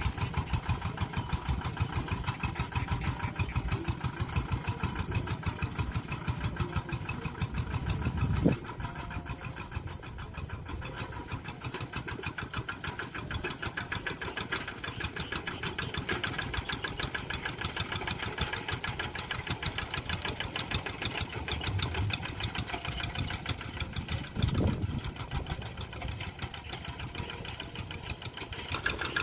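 Tractor engine running steadily with a fast, even chugging, rising briefly louder about a third of the way in and again near the end.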